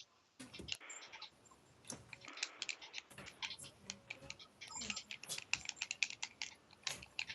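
Rapid, irregular clicking, several clicks a second.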